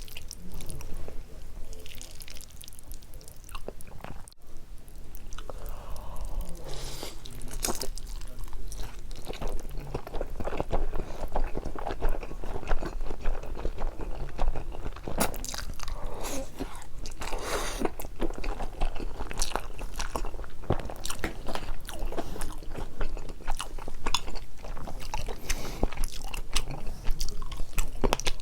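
Close-miked chewing and biting of Buldak carbonara fire noodles with Spam and Vienna sausages: a dense, steady run of short wet mouth clicks and crunches.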